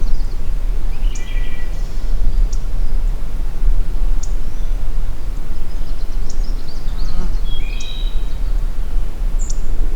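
Wind buffeting the microphone with a steady low rumble, while small songbirds give short chirps and calls, the clearest about a second in and near eight seconds.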